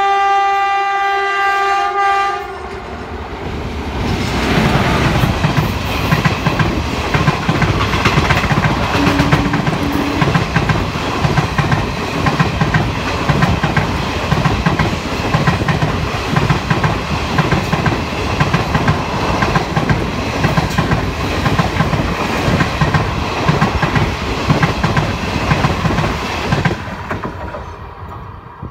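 Indian Railways WAP-4 electric locomotive sounds its horn in one steady note for about two and a half seconds. Then the locomotive and the Jan Shatabdi Express coaches pass close by: a loud, steady rush of wheels on rail with a rapid, regular clatter. The sound fades away near the end as the last coach goes by.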